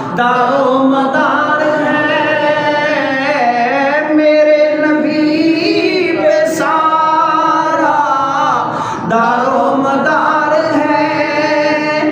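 A voice singing a naat, a devotional song in praise of the Prophet, with no instruments: long held notes that waver and slide in pitch, with brief breaks between phrases.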